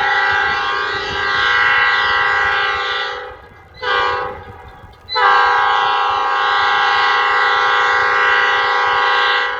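Multi-chime air horn of Escanaba & Lake Superior locomotive ELS 402, an EMD GP38, sounding a crossing signal: a long blast ends about three seconds in, then a short blast, then another long blast. It is a steady chord of several notes.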